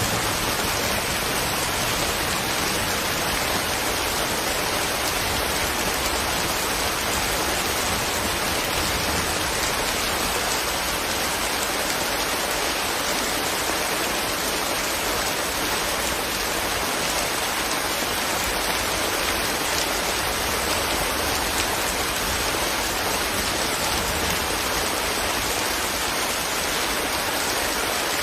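Steady rain, raindrops pattering on leaves, an even unbroken hiss.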